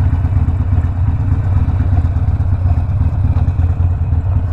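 Harley-Davidson Sportster Iron 1200's air-cooled V-twin running steadily through a Two Brothers 2-into-1 exhaust, a deep, even pulsing with no revving.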